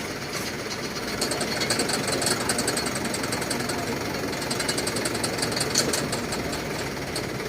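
An engine running with a rapid, even clatter. The clatter grows louder about a second in and fades back near the end.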